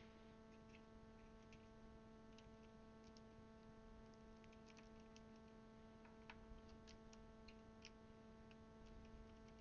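Near silence: faint, scattered clicks of plastic keycaps being pressed onto a DasKeyboard's Cherry switches, over a steady electrical hum.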